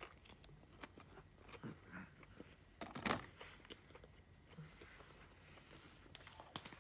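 Close-miked chewing of breaded chicken strips: soft wet mouth smacks and small clicks, with one louder sharp smack about three seconds in.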